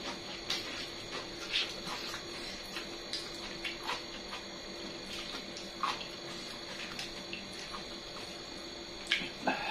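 Close-up eating sounds of chicken feet being chewed: irregular wet mouth clicks and smacks, a few every couple of seconds, with two quick louder ones near the end.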